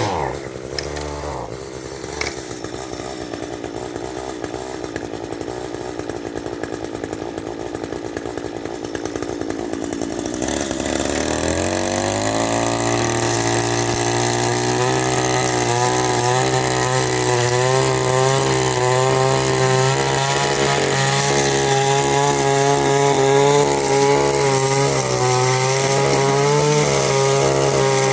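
Echo string trimmer's small two-stroke engine running just after a cold start: it idles for about ten seconds, then speeds up about eleven seconds in and holds a faster, slightly wavering speed.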